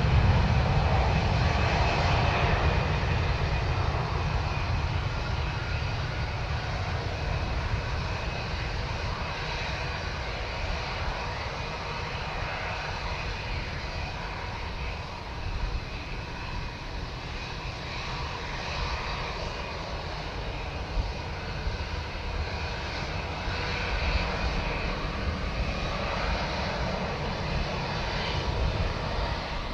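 Jet airliner engines rumbling at an airport, loudest at the start, then fading and building a little again near the end.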